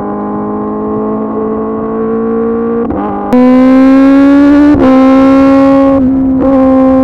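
Kawasaki ZX-10R's inline-four running through an SC-Project CRT exhaust under way, the revs climbing steadily. It gets louder a little after 3 seconds, and the note breaks briefly three times, near 3, 5 and 6 seconds, as if for gear changes or throttle lifts.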